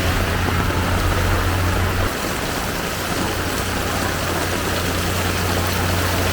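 Heavy rain pouring steadily, with a motor vehicle's engine running under it; the engine hum drops sharply about two seconds in and carries on more faintly.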